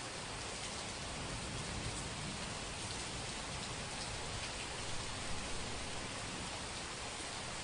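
Steady rain falling and pattering on surfaces, with scattered louder drops about five seconds in.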